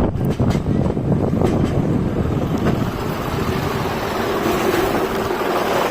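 Wind buffeting the microphone over a steady rumble from a moving ride, with a few sharp knocks in the first two seconds and a steady hum coming in about halfway through.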